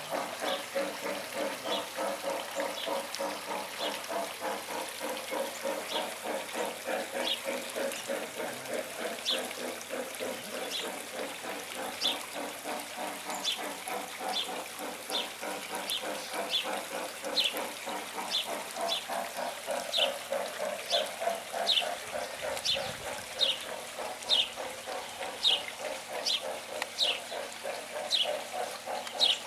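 A bird repeating a short, high, falling chirp about once or twice a second, over a steady fast rattling background.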